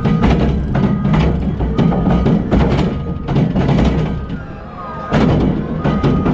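Rock clattering and knocking against steel as a wheel loader handles a bucket of quarry rock, about three knocks a second over the deep rumble of the machinery, with a pause in the knocking a little past the middle. A steady reversing-alarm beep sounds briefly, about a second in and near the end.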